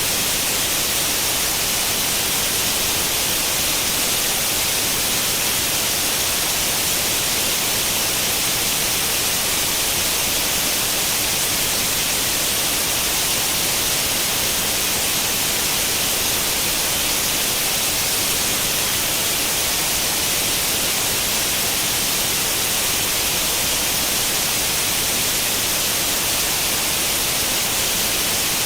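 Steady, unbroken white-noise hiss like the static of an old tube television tuned to no channel, brighter in the highs.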